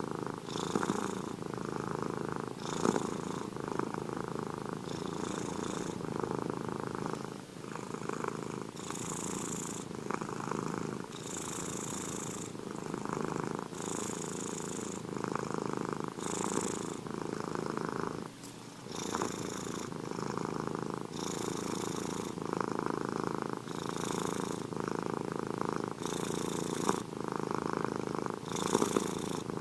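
Domestic cat purring continuously, swelling and easing in cycles with each breath, roughly every one and a half to two seconds. There is a short break about eighteen seconds in.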